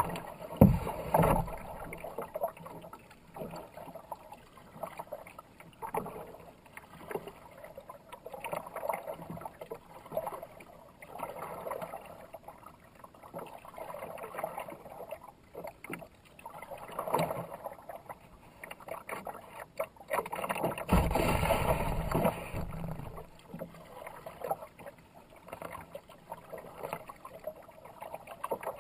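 Kayak paddle strokes dipping and splashing in fast river water, in a swelling and fading rhythm every two seconds or so. There is a louder rush of splashing about two-thirds of the way through.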